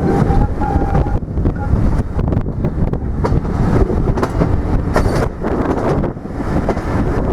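Train running past: a loud, heavy low rumble with irregular clicks and knocks, with wind buffeting the microphone.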